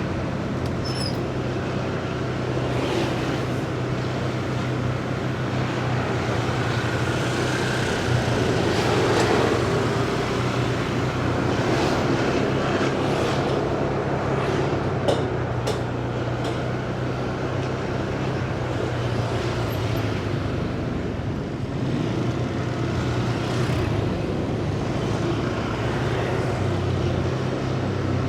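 Motorcycle engine running steadily at riding speed, heard from the rider's seat, with city traffic noise around it.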